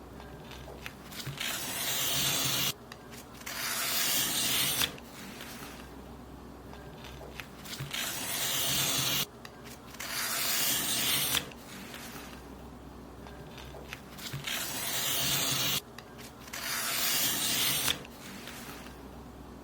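Paper being cut in long strokes, each a hissing rasp of two to three seconds that grows and then stops abruptly. There are about six strokes with short pauses between them.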